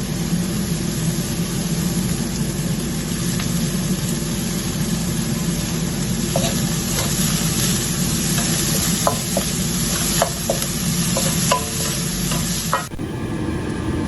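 Chopped garlic, shallot, chili and coriander sizzling in hot oil in a pan, with a utensil clicking and scraping against the pan as it is stirred from about six seconds in. The sizzle stops abruptly near the end.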